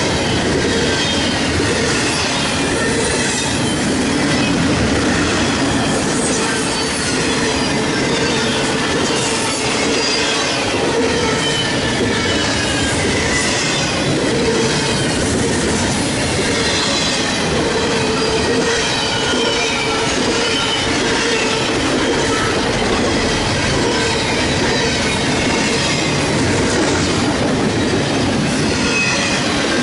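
A Norfolk Southern freight train's cars rolling past at steady loudness, with wheels clattering over the rails and high-pitched flange squeal that rises and falls.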